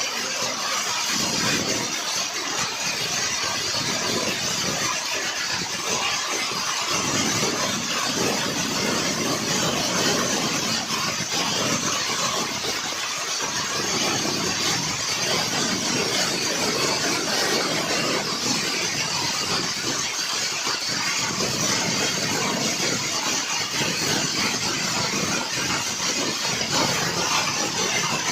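Hailstorm: hailstones and rain coming down hard, a dense, steady hiss of countless small impacts.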